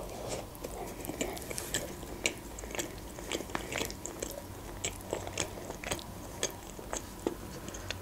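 Close-miked chewing of a mouthful of shawarma wrapped in lavash: a bite at the start, then irregular short mouth clicks, a few a second.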